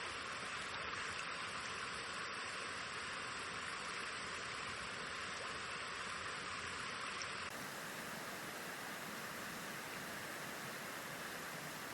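Forest stream flowing steadily, an even rush of water. About seven and a half seconds in, the rushing abruptly takes on a different, brighter tone.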